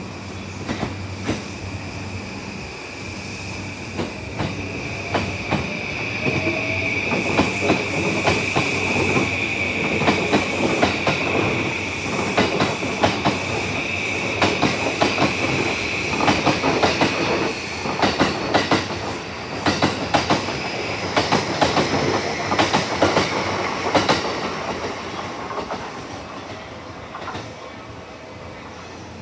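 Yokosuka Line E235-series electric train running close past the platform, its wheels clacking in rapid runs over the rail joints. The sound swells and then fades away, with a steady high whine through the first half or more.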